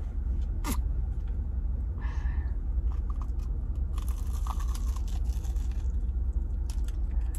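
A person biting into and chewing a crispy-coated Korean potato-and-mozzarella corn dog: scattered crunches and chewing clicks, heaviest about two seconds in and again from about four to six seconds in, over a steady low rumble.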